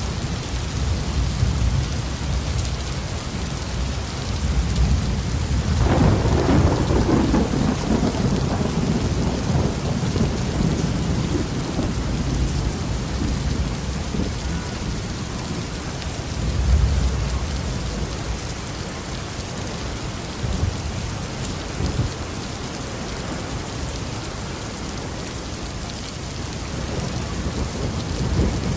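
Heavy rain falling steadily on a roof, with rolling thunder: a loud crack about six seconds in that rumbles away over several seconds, and a lower rumble again near the middle.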